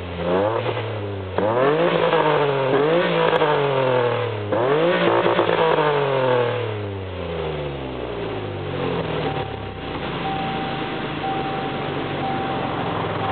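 Ford Contour SVT's 3.0 L hybrid V6, exhaust note through a de-cat pipe, Magnaflow resonator and stock mufflers, pulling up through the revs three or four times with a drop in pitch between pulls. It then falls away and settles into a steady lower drone.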